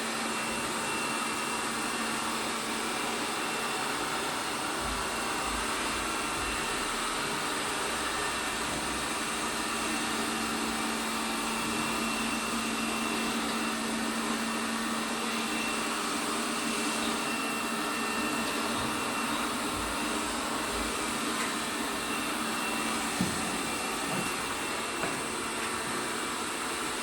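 ELARI SmartBot Lite SBT-002A robot vacuum running, a steady motor and fan noise with a low hum and a faint high whine. Near the end come a few light knocks.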